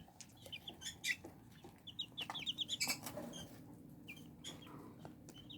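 Young chicks peeping: quick runs of short high chirps, the busiest a little over two seconds in, with light taps and clicks scattered among them.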